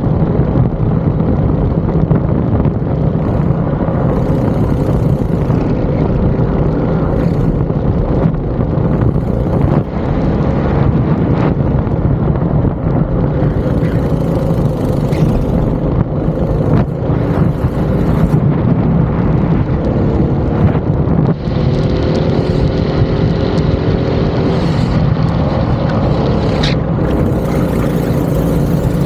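Go-kart engine running hard at racing speed, its pitch rising and falling with scattered knocks, under heavy wind noise on the microphone.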